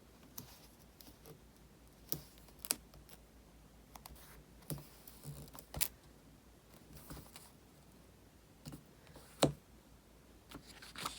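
Quiet, scattered clicks and taps of paper, washi tape and a craft knife being handled on a planner page on a desk, the loudest about nine and a half seconds in.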